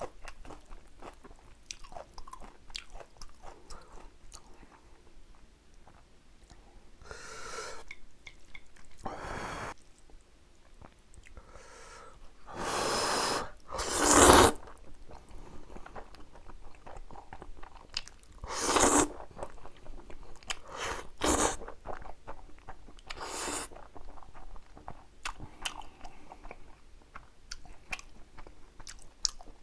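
Close-miked eating of spicy Jjapagetti black-bean noodles with kimchi: wet chewing and small crunches throughout, broken by about six louder slurps of noodles, the loudest about 14 seconds in.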